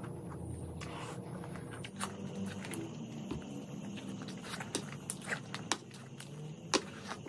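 Close-miked eating sounds of a person chewing a mouthful of mutton curry and rice, with wet mouth sounds and sharp lip smacks, more frequent in the second half, the loudest near the end.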